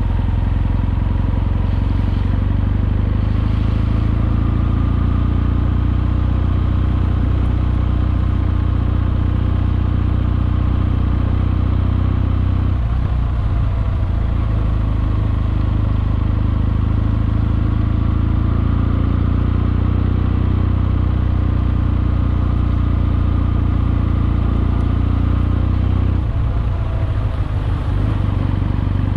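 Kawasaki W650's air-cooled parallel-twin engine running steadily under way, its even note breaking off briefly twice, about halfway through and near the end.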